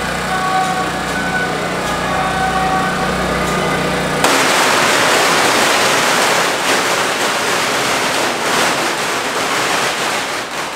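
A long string of firecrackers going off in a dense, rapid crackle. It starts suddenly about four seconds in and lasts about six seconds. Before it there is a steady hum with several held tones.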